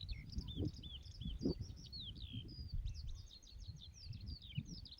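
Many small birds singing and chirping together in rapid short notes, some swooping down in pitch, over a steady low rumble.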